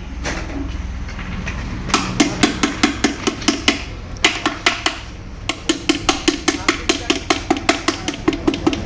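Rapid hammer tapping on a motorcycle engine's crankcase half, about five or six strikes a second in three runs with short pauses between, seating the half onto the other before it is bolted up.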